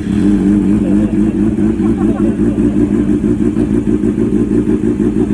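2019 Kawasaki ZX-6R inline-four, breathing through an Arrow Pro Race full-system exhaust with its dB killer removed, catching right at the start and then idling loud and steady.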